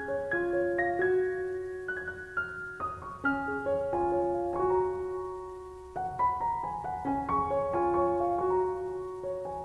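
Background piano music: a gentle, slow melody with chords.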